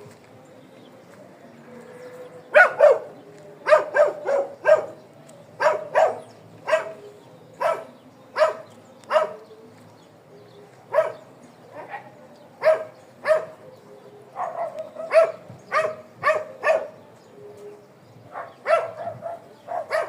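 A dog barking in short, sharp barks, irregularly spaced at about one or two a second, starting a couple of seconds in.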